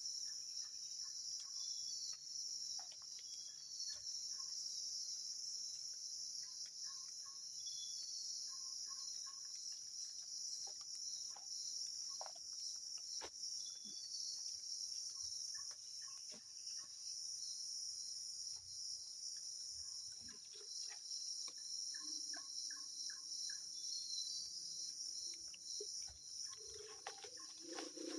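Steady high-pitched chorus of crickets and other night insects, with faint short chirps repeating now and then and a few soft clicks.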